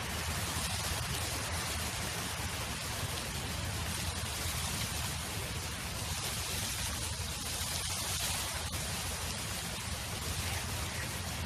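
Steady wind in an open field: a low, unsteady rumble of wind buffeting the microphone under a broad, even hiss.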